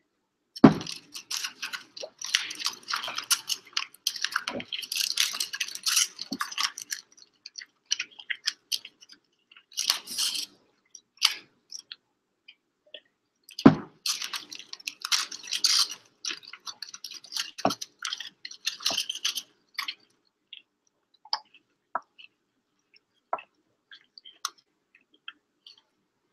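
Fast chewing of a foil-wrapped burrito with the aluminium foil crinkling, in dense stretches for the first twenty seconds, then only scattered small clicks and smacks. Two loud thumps on the table, about half a second in and again around fourteen seconds.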